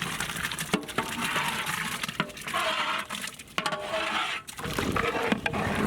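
Wet sloshing and squelching in a large cooking pot as soaked cracked wheat is added to the boiled chicken and mixed in, with a few sharp clinks of the ladle against the pot.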